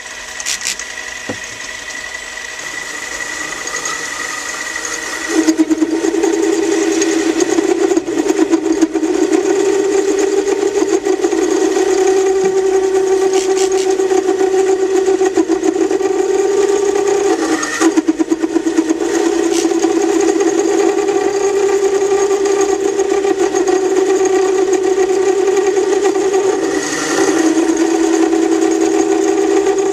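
Metal lathe turning down a thin bolt blank. The machine runs steadily, and about five seconds in a strong steady pitched tone sets in as the tool takes the cut, holding with brief breaks near the middle and near the end.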